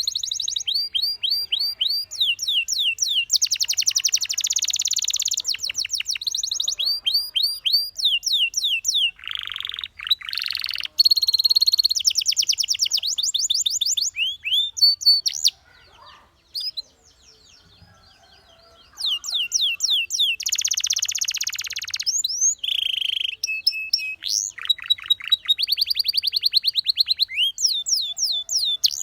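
Canary singing: long trills of quick sweeping notes, repeated many times a second, mixed with buzzy rolling phrases. The song breaks off for about three seconds past the middle, then resumes.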